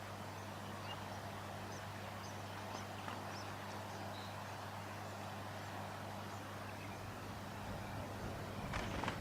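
Faint, short high bird chirps scattered over a steady low hum, with a brief louder crackle near the end.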